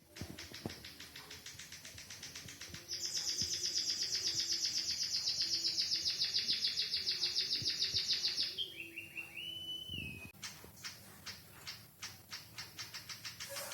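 White-headed munia (emprit kaji) singing a learned canary-style song: a fast high trill, then a louder rolling trill lasting about five seconds, a few short whistled notes, and a run of sharp chipping notes near the end.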